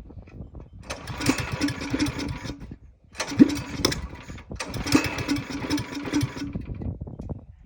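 Mini bike's 212cc Predator single-cylinder four-stroke engine being throttled up three times, dropping back to a quieter idle between the bursts and at the end.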